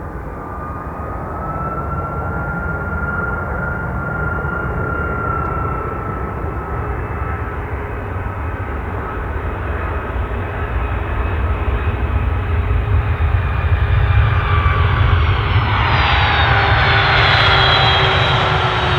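Boeing 757-200's two Rolls-Royce RB211-535E4B turbofan engines running on approach, a steady roar with high whine tones, growing louder. About sixteen seconds in the roar swells sharply and the whine tones slide down in pitch as the jet passes close.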